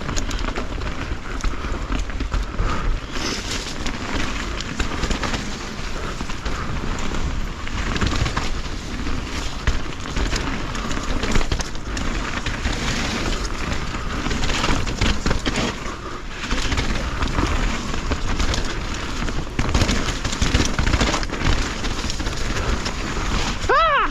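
Mountain bike riding over rough trail, heard from a rider-mounted action camera: a continuous rumble of tyres on dirt and roots, with frequent rattles and knocks from the bike and wind on the microphone.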